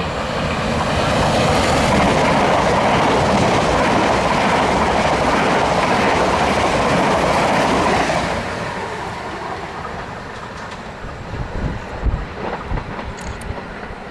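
Southern Class 377 Electrostar electric multiple unit running through the station at speed: the rush and clickety-clack of its wheels on the rails builds as it closes in, stays loud for several seconds as the carriages pass, then fades away as it recedes.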